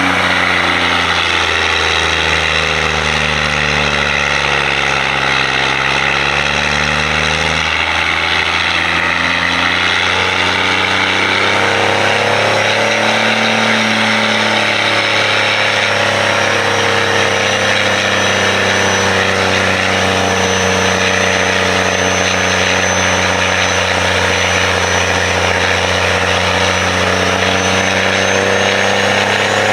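A lifted pickup truck's engine runs on a chassis dyno. Its pitch sags and climbs again over the first several seconds, then holds and slowly builds, with a faint high whine rising near the end.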